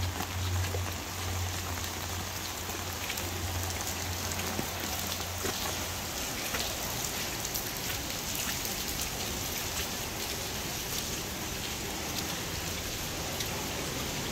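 Steady rain: an even hiss with scattered sharp drip ticks. A low hum runs under it for the first few seconds, then fades.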